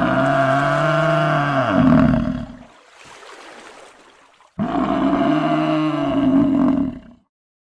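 African buffalo bellowing: two long, low calls of about two and a half seconds each, the second beginning about halfway through, with a faint rustling hiss between them.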